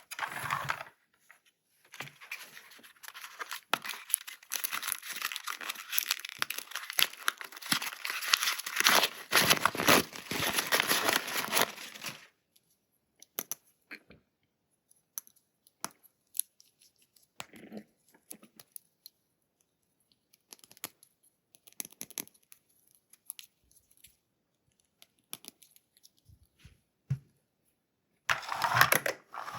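Toy packaging being torn open and crinkled for about ten seconds, then scattered small clicks and taps as plastic toy parts are handled, with a short louder rustle near the end.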